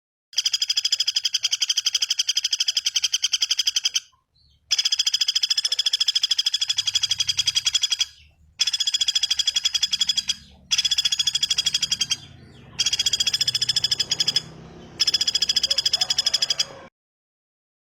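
A bird's fast pulsing trill, repeated in six bursts of about two to four seconds each, separated by short breaks, played back as a masteran training recording.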